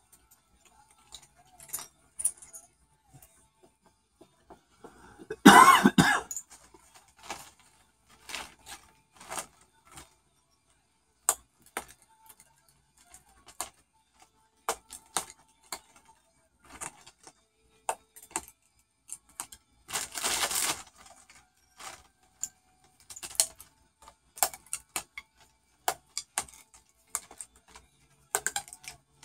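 Cockatoo working at something with its beak: irregular sharp clicks, taps and crunches, with a short loud burst about five and a half seconds in and a rougher noisy stretch about twenty seconds in.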